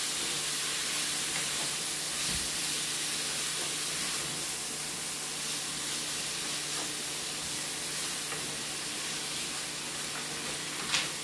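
Ground beef stuffing mixture sizzling in a stainless steel pan while being stirred with a wooden spatula, with one sharp tap near the end.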